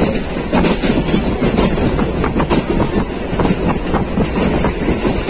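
Passenger train of the Subak Raftar rail car service running along the track, heard on board: a steady rumble of wheels and coach, with irregular clattering clicks over the rails.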